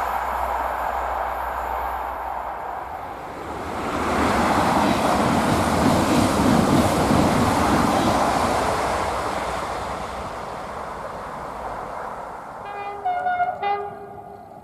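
A train passes at speed: the rush of wheels on rail swells, peaks for a few seconds, then fades. Near the end a train horn sounds briefly.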